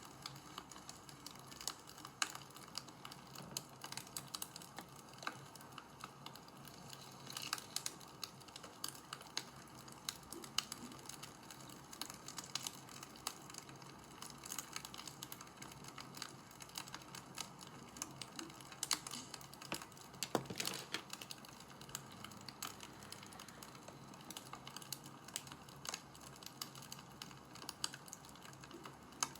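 Wood fire crackling: a soft steady hiss with irregular sharp pops and snaps, some louder than others.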